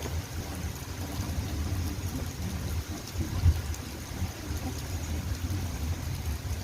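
Rain falling steadily: an even hiss with faint scattered drop ticks over a strong low rumble, and a single thump about three and a half seconds in.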